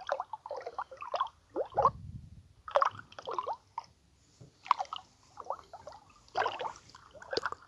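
Water-drop and gurgling sounds played from a sound app, in irregular short plops and bloops, several of them sweeping in pitch.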